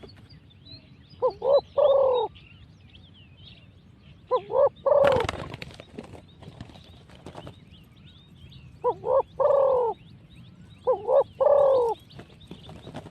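Spotted dove cooing four times, each call two short notes and a longer drawn note, a few seconds apart; a decoy dove calling in a wild one. Small birds chirp faintly throughout, and there is one sharp knock about five seconds in.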